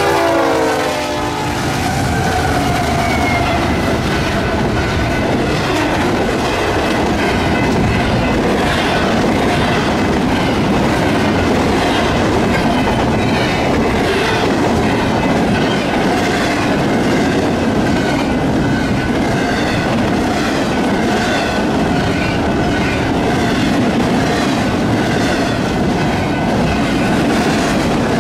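BNSF freight train passing at speed, its wheels clacking steadily over the rail joints under a constant rumble. The locomotive horn's last note slides down in pitch and fades in the first second as the engine goes by.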